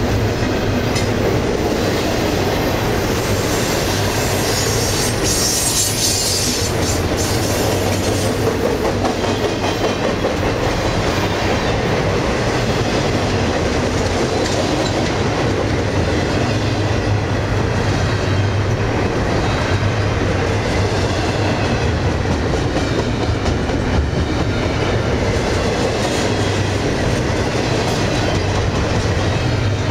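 CSX double-stack intermodal train rolling past close by: a steady rumble of the well cars' steel wheels on the rails with clickety-clack over the rail joints.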